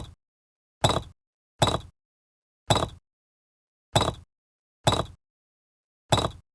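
Seven short, sharp knocks at uneven spacing, each dying away quickly, with dead silence between them.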